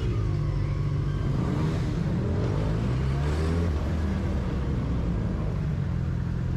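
Steady car engine and road rumble. Between about two and four seconds in, an engine's pitch rises and then falls.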